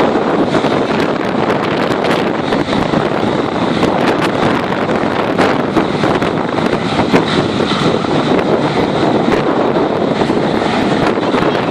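Hovercraft running, a loud, steady noise of engine and lift fan, with wind buffeting the microphone.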